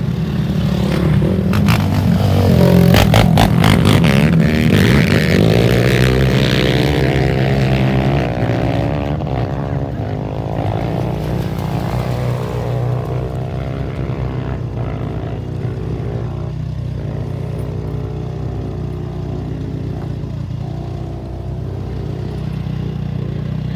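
Off-road race motorcycle engines running and revving, loudest a few seconds in as the pitch sweeps up and down, over a steady low engine drone.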